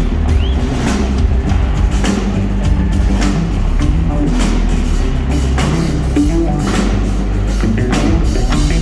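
Live rock band playing an instrumental passage, with steady drum-kit hits over a heavy bass line and guitars, picked up loud from the audience.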